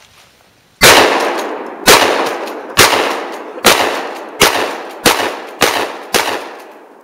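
Eight shots from a 12 gauge combat shotgun, fired one after another and coming faster toward the end, each shot with a long echoing tail.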